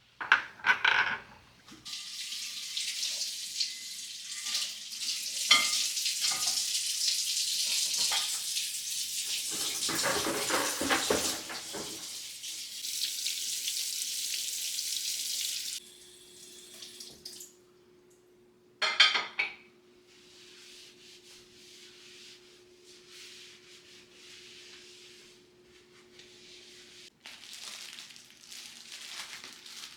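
Water running steadily for about fourteen seconds, then shut off suddenly. There are a few knocks at the start and a short clatter a few seconds after the water stops.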